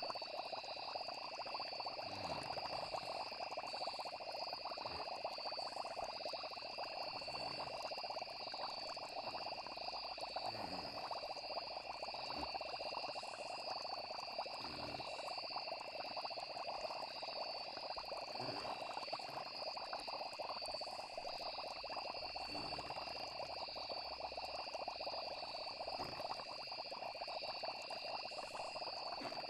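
Night nature ambience: a steady chorus of crickets and frogs, with short low falling sounds every few seconds.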